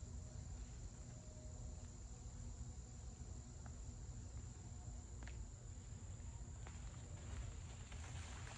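Faint, steady high-pitched drone of insects, over a constant low rumble of moving air on the microphone, with a few soft clicks about halfway through.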